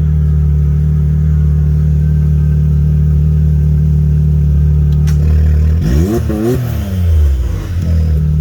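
Can-Am Maverick X3 side-by-side's engine idling steadily, then revving up and back down about six seconds in as it moves off.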